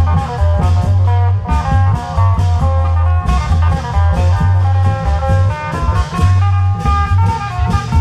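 Isan long-drum (klong yao) band music: a quick plucked-string melody over a heavy, steady bass line and continuous drumming.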